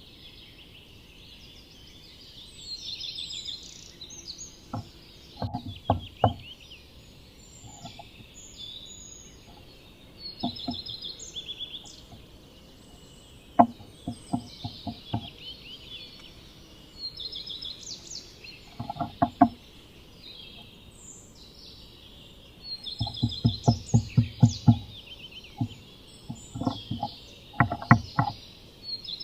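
Bursts of quick tapping and knocking in the wooden nest box as a Eurasian nuthatch works on her nest, the longest and loudest run coming a little past the three-quarter mark. Small birds chirp and sing in the background throughout.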